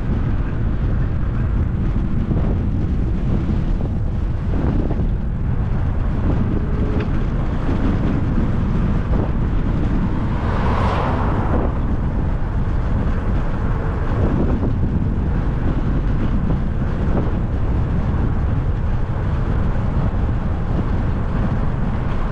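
Wind buffeting the microphone of a camera carried on a moving bicycle: a steady, loud rush of wind noise.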